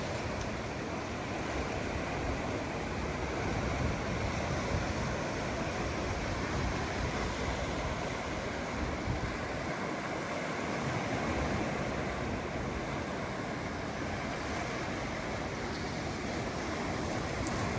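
Ocean surf washing onto a beach, a continuous rushing wash with no break.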